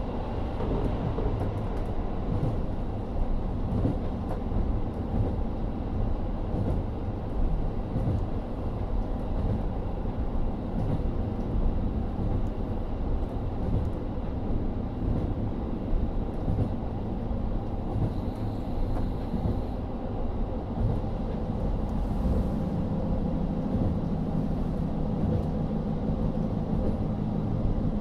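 Interior running sound of a KIHA40 Type 350 diesel railcar: a steady rumble from its N-DMF13HZB diesel engine and wheels on the rails. About 22 seconds in, a steadier low hum comes up.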